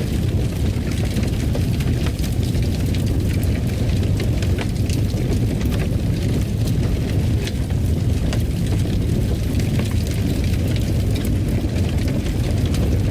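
Fireplace fire crackling: a steady low rumble of the flames with frequent small sharp pops and snaps.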